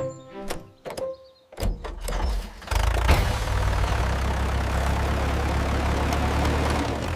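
A few short clicks and tones, then a tractor engine starting about a second and a half in and settling into a steady run with a deep low hum.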